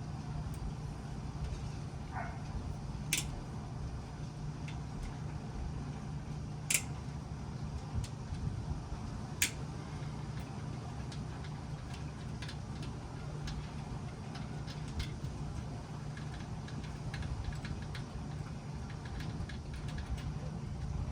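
Hand tools on the water pump cover bolts of a 1997 Honda CR250: a few sharp metallic clicks, then lighter, quicker ticking in the second half, over a steady low hum.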